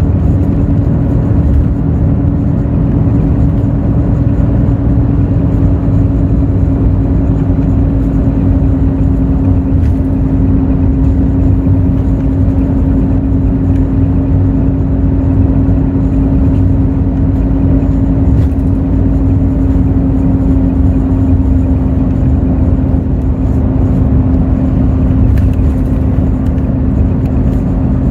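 Hino J08E-VD inline-six turbodiesel of a Hino RN8JSVU-SSF bus running steadily at cruise, heard from inside the cabin: a continuous rumble with one steady droning tone over it.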